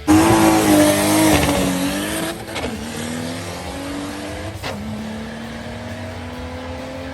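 Car engine accelerating hard. Its pitch climbs steadily and drops back twice as it shifts up through the gears, loudest in the first couple of seconds.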